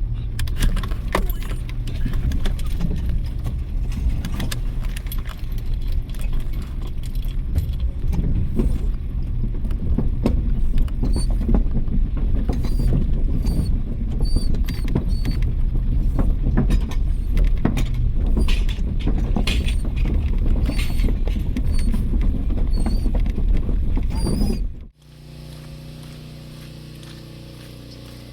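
Loud rumbling road noise inside a moving vehicle, with many small clicks and rattles throughout. About 25 seconds in it cuts off abruptly to a much quieter, steady hum.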